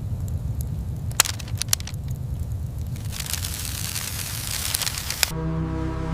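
Steady low rumble with a couple of sharp clicks, then about two seconds of crackling hiss that cuts off abruptly as music starts near the end.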